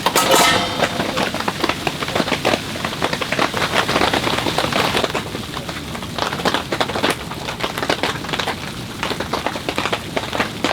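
Steady winter rain, a dense patter of many individual drops striking a surface close by. A brief, louder ringing sound comes right at the start.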